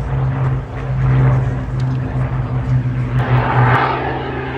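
A steady low engine drone. About three seconds in, a rushing noise swells up as the drone drops back.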